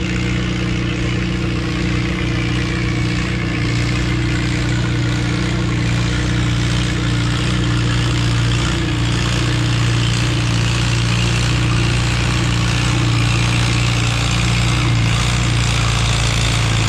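Antique farm tractor engine running steadily at high throttle under heavy load while pulling a weight-transfer sled.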